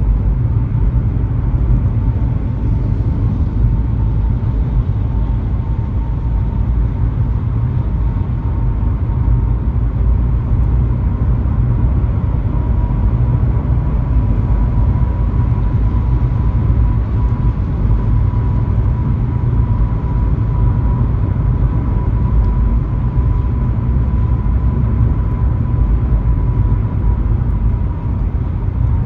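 Steady road noise of a car driving on a highway: a constant low rumble of tyres and engine, with a faint steady high tone running under it.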